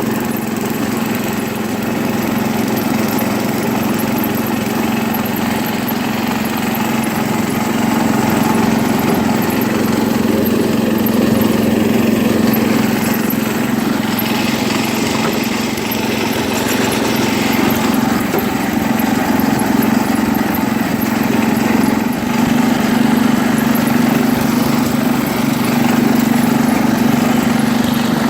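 Single-cylinder engine of a 1973 International Harvester Cub Cadet 86 garden tractor running steadily as the tractor is driven, a constant engine drone with a strong low hum.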